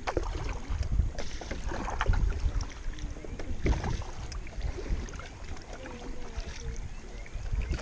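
Kayak paddle dipping and splashing through the water in strokes about a second apart, over a low rumble of wind on the microphone.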